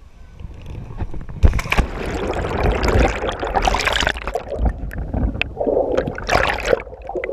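Water splashing and churning as a person jumps into a lake, loud and rough from about a second and a half in and lasting several seconds before easing off near the end.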